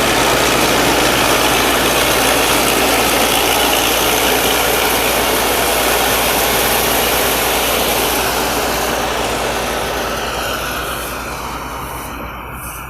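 Combine harvester with an Isuzu 6M61 six-cylinder diesel engine running steadily, a dense mechanical din that fades away over the last few seconds.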